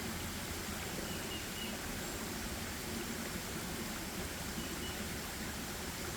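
Steady forest ambience: an even rushing background noise, with faint high bird chirps twice, about a second in and again near the end.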